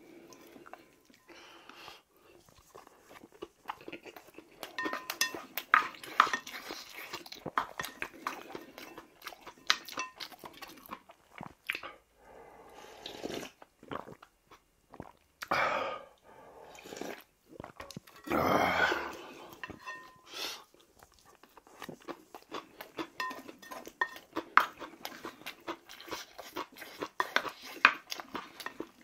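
Close-up chewing and crunching of raw kohlrabi bibimbap, with a spoon and chopsticks clicking against the rice-cooker pot. Around the middle come a few longer sips of spicy ramen broth drunk straight from the pot.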